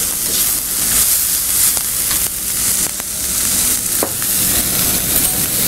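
Cut drumstick (moringa) pieces and chopped onions sizzling in a metal kadai on a gas flame, stirred with a spatula that ticks against the pan a few times.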